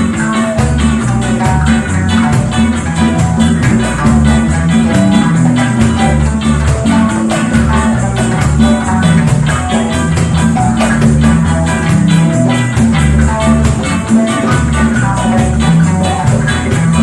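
Live band music with a strong, moving bass line, plucked strings and a steady beat carried by shaker-like percussion.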